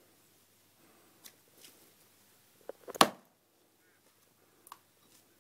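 Axe striking a log while splitting firewood: one sharp, loud strike about three seconds in, with a few light knocks before it.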